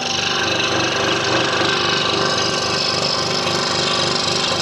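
Scroll saw running steadily, its reciprocating blade cutting curves through a wooden puzzle blank.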